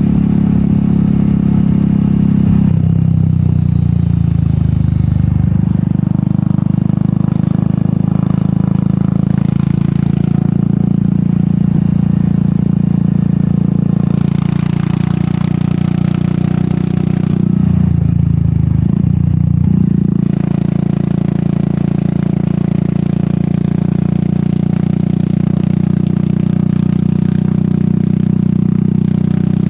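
Royal Enfield Meteor 350's single-cylinder engine running under way through its aftermarket sport exhaust, a steady engine note that dips and changes pitch briefly a few seconds in and again past halfway before settling.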